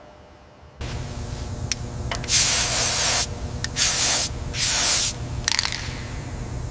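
Three short bursts of spraying, about half a second to a second each, with a few sharp clicks between them over a steady low hum.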